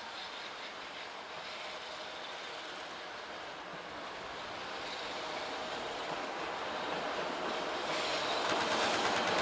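EF66 electric locomotive hauling a long container freight train, approaching and growing steadily louder as a steady rumble and rush of wheels on rail, turning brighter and hissier in the last second or so.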